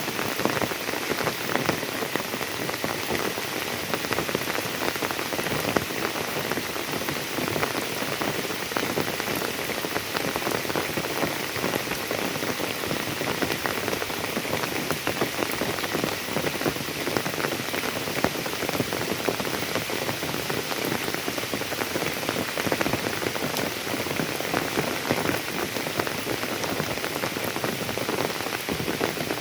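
Steady rain falling, a dense, unbroken patter of many drops.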